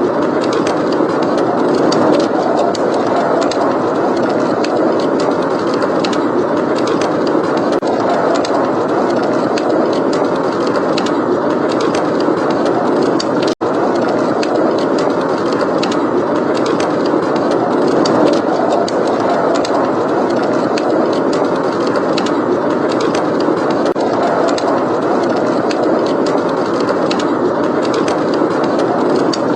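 Steady blizzard wind with a wood fire crackling in a fireplace over it. The whole sound cuts out for an instant about halfway through.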